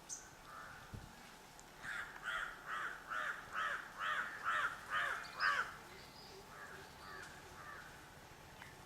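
Indian treepie (rufous treepie) calling: a quick run of about nine calls, a little over two a second, growing louder, then three fainter calls.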